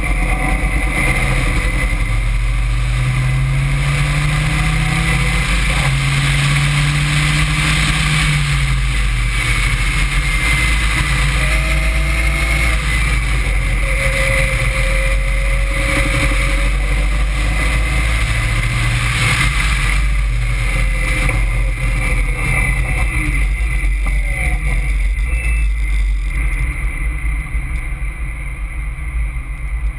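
Caterham Seven's engine driven hard on track, its pitch climbing under acceleration several times as it pulls through the gears, over a steady loud low rumble.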